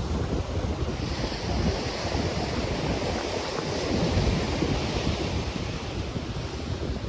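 Ocean surf breaking and washing up the beach, with wind buffeting the microphone in a gusty low rumble. The hiss of a wave's wash swells about a second in and eases off near the end.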